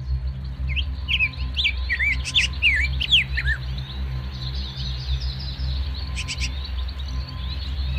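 Birds chirping: a quick run of sweeping whistled notes in the first few seconds and a few more later on, over a steady low drone.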